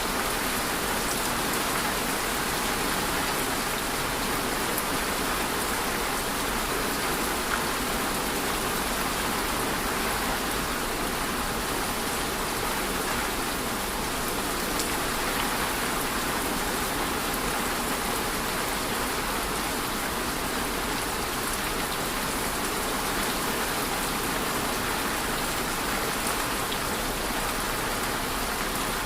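Steady rainfall: an even hiss of rain falling on a surface, with a few faint individual drop ticks.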